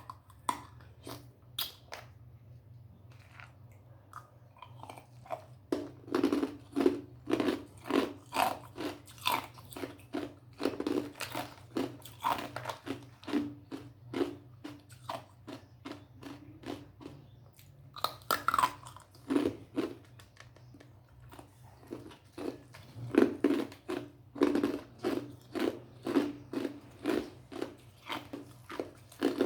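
A person biting and chewing ice, loud crisp crunches in a quick rhythm of about two a second. They start sparse, come thick from a few seconds in, and break off briefly past the middle before starting again.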